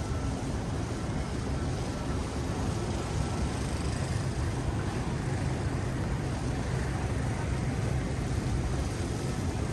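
Steady low rumble of city street traffic, even throughout with no distinct events.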